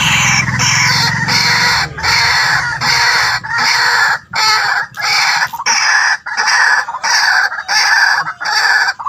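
White-breasted waterhen calling: a loud, harsh call repeated over and over, about one and a half calls a second. A low hum fades out about two seconds in.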